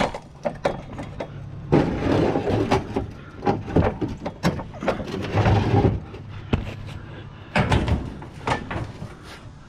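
Scrap being hauled up and shifted onto a loaded pile: a run of irregular knocks and clanks with several longer stretches of scraping.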